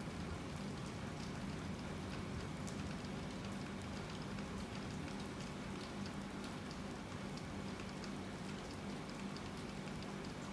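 Steady rain falling, with many separate drops ticking, over a low steady hum.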